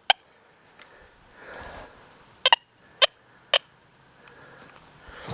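XP Deus 2 metal detector giving short, high chirps as its coil sweeps over a target in the Bird Dog program: one chirp at the start, then three about half a second apart.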